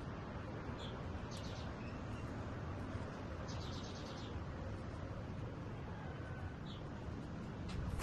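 Oriental magpie-robin giving short, high chirps at scattered moments, with a quick run of repeated notes about halfway through, over a steady low background rumble.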